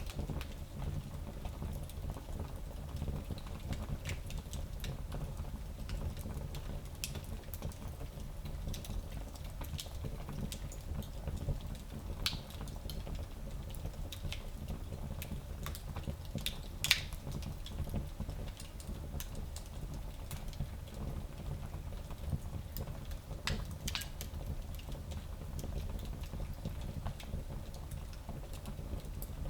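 Wood fire burning in a small fireplace: a low steady rumble with scattered crackles and pops, the sharpest pop about halfway through.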